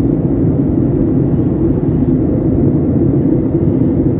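Steady low drone of an airliner cabin on its landing approach: jet engine and airflow noise heard from a window seat.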